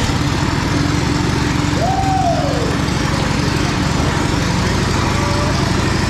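1927 Indian Scout's V-twin engine running steadily and loud. About two seconds in, a short high-pitched sweep rises and then falls over it.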